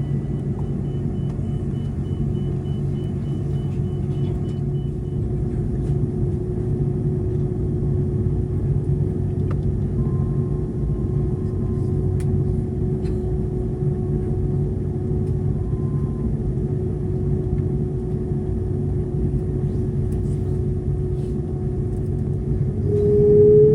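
Airbus A330-200 heard from inside the cabin while taxiing: a steady low rumble with a steady engine whine over it. Near the end the whine jumps up in pitch, keeps rising and grows louder as the engines spool up.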